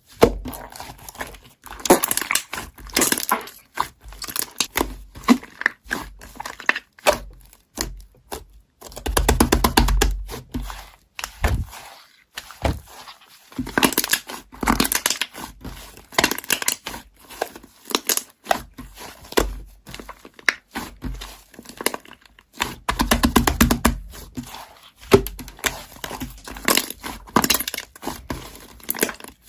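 Slime being squished, pressed and stretched by hand, with irregular crackling, popping and sticky tearing sounds in uneven bursts.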